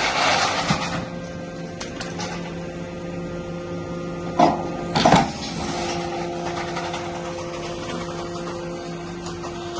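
Automatic metal baler's hydraulic pump unit running with a steady hum while pressing aluminium extrusions, with two loud metal clanks about four and five seconds in.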